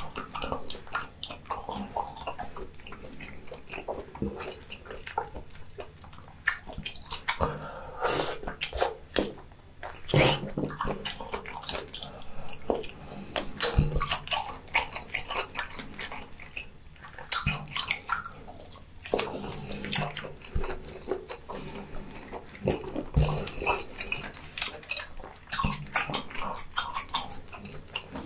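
Close-miked wet chewing, smacking and slurping of boiled octopus, with an irregular run of sharp squelching clicks.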